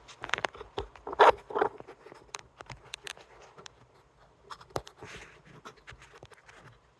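Close handling noise from a phone being fiddled with and repositioned in its stand: a scattered run of clicks, taps and short rubs right at the microphone, the loudest cluster about a second in.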